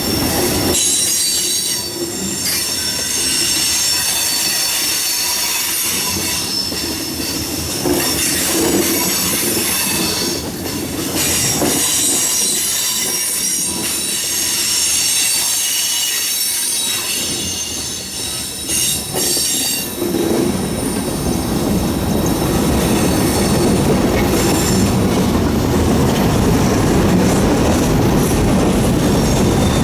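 Freight train rolling past with its steel wheels squealing against the rail in several high, steady tones, over a clickety-clack of wheels on the rail joints. About two-thirds of the way through, a louder, fuller rumble takes over.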